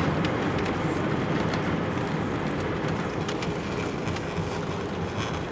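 Airliner cabin noise as the aircraft rolls along the ground after landing: a steady rumble with light rattles, slowly easing off.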